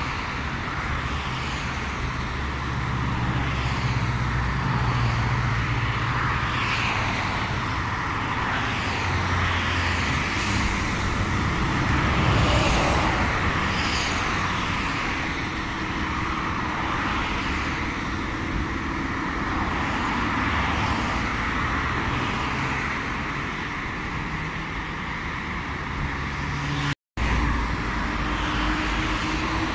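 Steady road traffic noise with vehicles passing, louder for a few seconds near the middle. Near the end the sound cuts out for an instant, and a rising hum follows.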